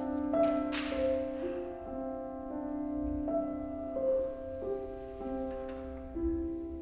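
Piano trio of piano, violin and cello playing contemporary chamber music: long held notes that move to new pitches every second or so, with a sharp, bright accent about a second in.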